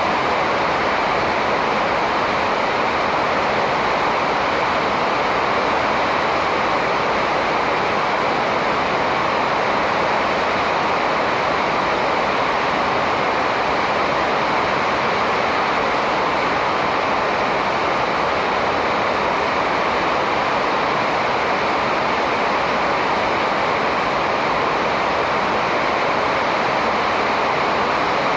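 Steady, even rushing noise with no change in level and no bird calls standing out.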